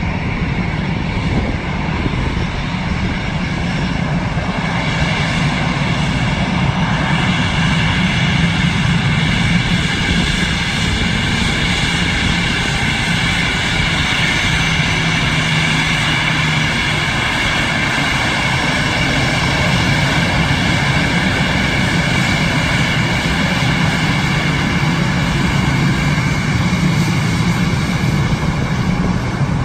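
Airbus A319 jet engines running steadily: a whine of several high tones that strengthens about five seconds in, over a low rumble.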